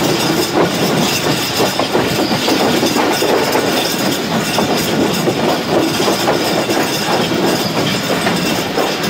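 Passenger train coaches running along the track, wheels rattling steadily on the rails, heard from an open window of the moving train.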